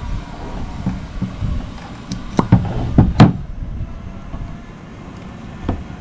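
A few sharp metallic knocks and clanks from brake parts and hand tools being handled, as the caliper mount is worked on and its slide pins are pulled. Three come close together in the middle and one more near the end, over a steady low rumble.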